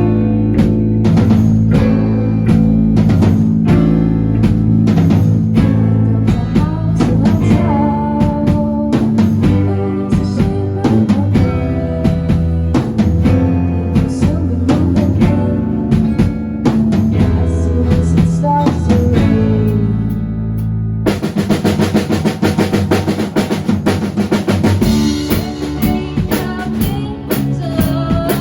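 A band playing a song with drum kit, bass and guitar, without singing. About two-thirds of the way through the music changes section and bright, regular cymbal strokes come in.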